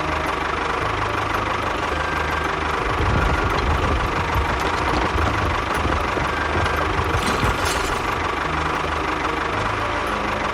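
A small engine running steadily with a knocking chug; it gets louder about three seconds in.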